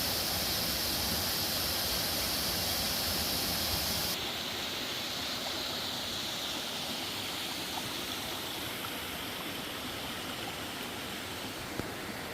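Steady rush of flowing water. About four seconds in it changes abruptly to a duller, less hissy rush.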